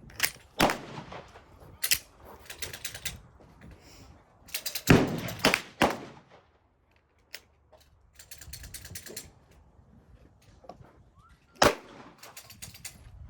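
Gunshots: single sharp shots and several quick rapid-fire bursts, with the loudest cluster about five seconds in.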